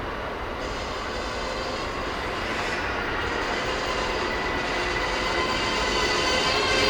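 An electric commuter train on the line, growing steadily louder as it draws nearer, with a high whine of several tones building in the second half.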